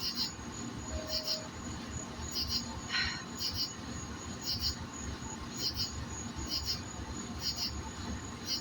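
Insect chirping: short, high chirps of a few quick pulses each, repeating about once a second over a thin steady high whine.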